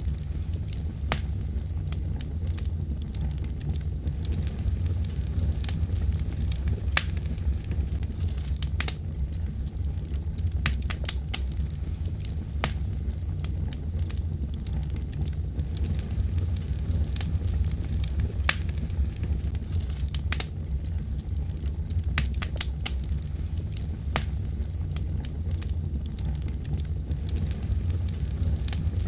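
A fire crackling: a steady low rumble of burning with sharp, irregular pops and crackles every second or so.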